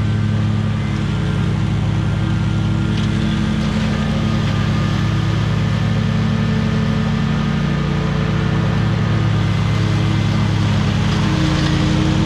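Small petrol engine of lawn equipment running loud and steady at constant high speed.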